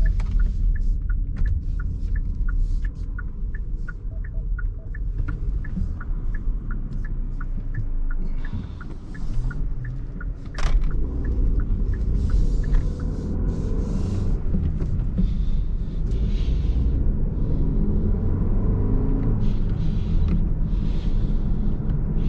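Car cabin noise while driving: a steady low engine and road rumble. For the first nine seconds or so there is a regular light ticking, about three ticks a second. About ten seconds in there is a sharp click, after which the rumble is a little louder.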